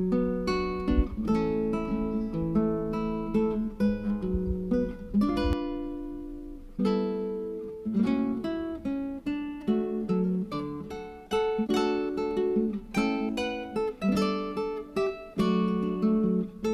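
Background music: acoustic guitar playing plucked and strummed chords, with a brief pause about six seconds in.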